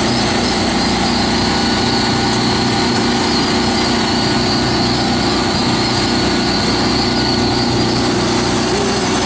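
A dense, steady high peeping from a mass of day-old turkey poults, over a constant mechanical drone with a hum.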